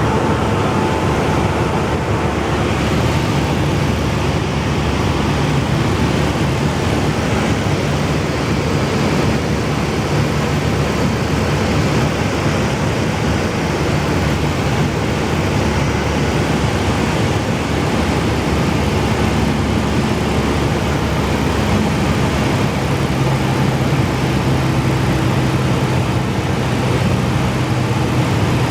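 Cessna 172 piston engine and propeller droning steadily in cruise flight, with heavy rushing noise; the engine note shifts slightly about two-thirds of the way through.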